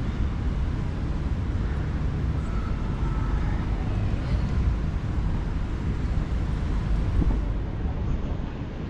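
City street ambience: a steady low rumble of traffic with faint voices mixed in.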